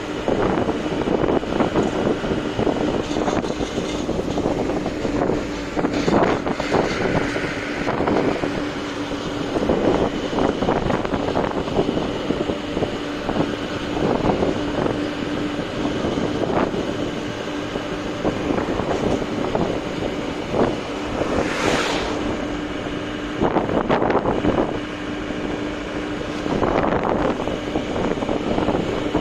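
Truck running at speed: a steady engine drone with road rumble and wind noise, and irregular knocks and jolts. About 22 seconds in, a brief rising rush of noise.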